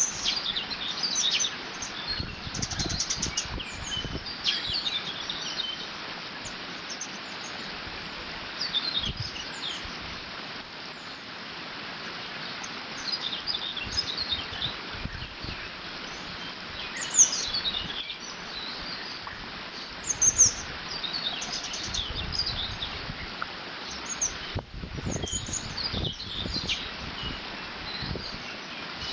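Songbirds chirping and singing in short, repeated phrases over the steady rush of water flowing through a beaver dam, with a few low gusts of wind.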